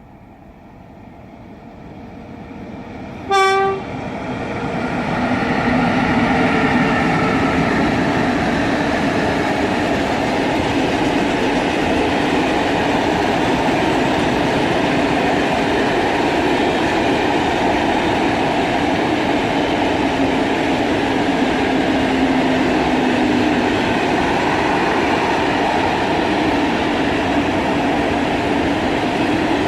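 Freight train approaching and passing. The sound grows louder over the first few seconds, and there is one short horn blast about three and a half seconds in. After that the train runs past steadily and loudly.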